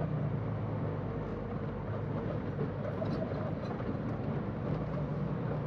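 Semi-truck's engine running, heard from inside the cab as a steady low rumble with road noise.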